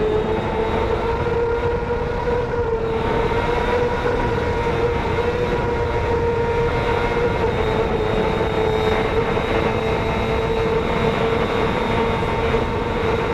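Racing motorcycle engine held at high, nearly constant revs, heard from on board the bike with heavy wind rush. Its pitch stays steady, with only small rises and dips.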